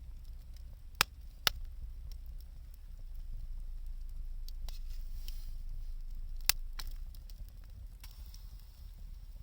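Wood fire crackling over a low steady rumble, with sharp pops: two about a second in, half a second apart, and another near the middle.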